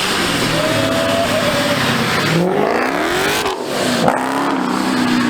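A car engine revving hard, its pitch rising and falling several times, over a loud, continuous rushing noise.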